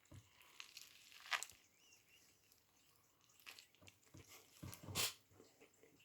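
Faint bites and chewing of a toasted sub roll, with a few sharp crunches, the loudest about a second and a half in and near five seconds.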